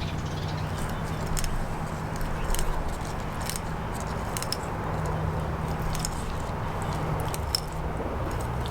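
A knife cutting through a trout's flesh and small bones, with scattered small clicks and scrapes. Under it runs a steady low background hum.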